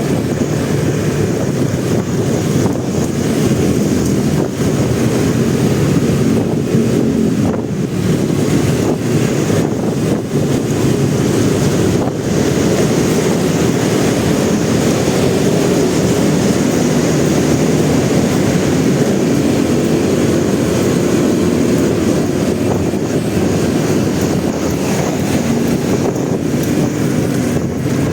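Motorcycle engine running steadily under way, mixed with wind rushing over the microphone.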